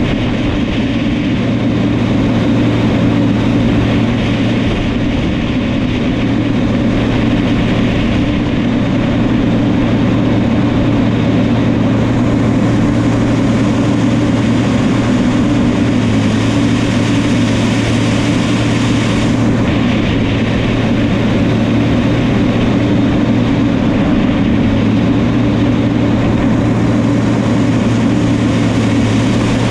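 New Holland crawler dozer's diesel engine running steadily with an even, unbroken drone.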